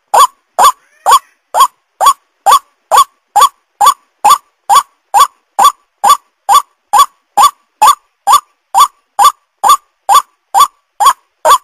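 White-breasted waterhen (ruak-ruak) call, played as a lure: a short rising note repeated evenly a little over twice a second.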